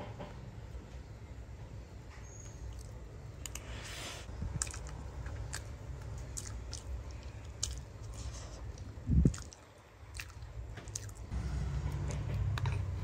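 A person eating, chewing and biting with small crisp clicks over a low background rumble. There is one loud thump about nine seconds in.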